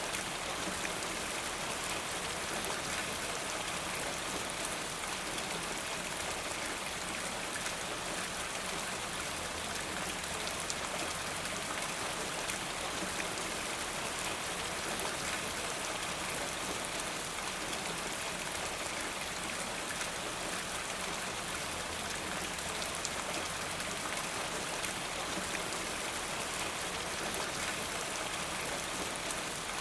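Steady rain falling, an even hiss of many drops with faint individual spatters. It holds at a constant level throughout.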